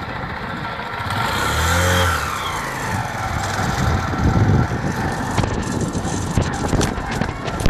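Motorcycle ridden through traffic: steady engine and road noise. Another vehicle's engine swells and fades as it passes close about two seconds in, and a run of sharp clicks and rattles comes near the end.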